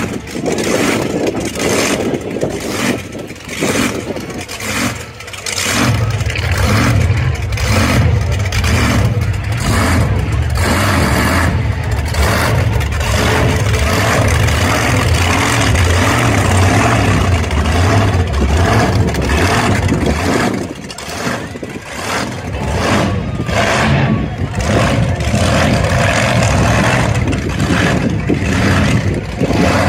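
Monster truck engine running loud and revving in repeated surges, easing off briefly about twenty seconds in before picking up again.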